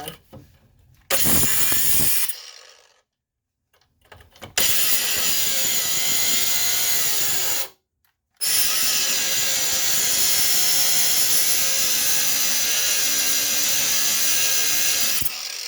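Power cutting tool running in three long runs, cutting through a stuck bolt in the front suspension; each run stops abruptly.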